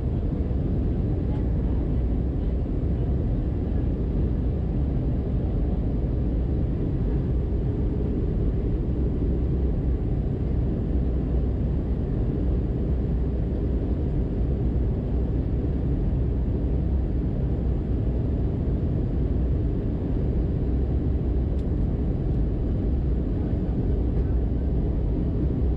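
Steady low cabin rumble of an Airbus A320-212 airliner in flight, its CFM56 engines and the airflow heard from inside the passenger cabin, with no change in pitch or level.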